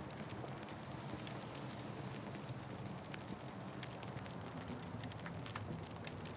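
Wood fire crackling: frequent sharp pops and snaps over a steady low rumble of burning flames.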